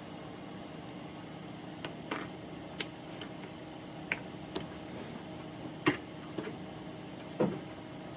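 Scattered small clicks and taps of tweezers, soldering iron and tiny parts being handled while a wire is soldered to a micro motor terminal, the sharpest two near the end. A steady low hum runs underneath.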